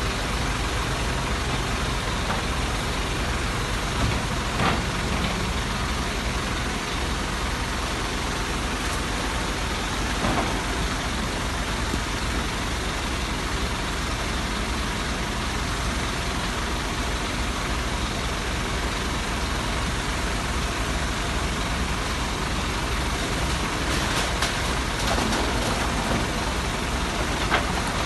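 An engine running steadily, with a few brief knocks over it.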